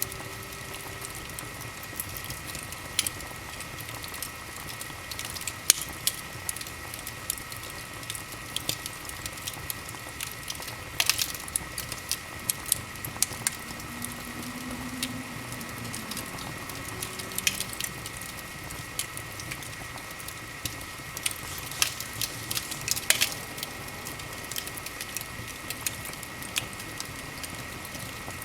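Wood fire in a fireplace crackling: scattered sharp pops and snaps, a few louder ones, over a steady hiss, with a faint steady high tone underneath.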